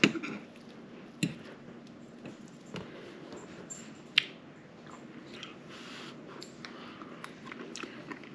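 A man chewing a mouthful of cheesy egg casserole, with soft wet mouth sounds and small ticks. A sharp clink of a metal fork on the plate right at the start, and a couple more sharp clicks later.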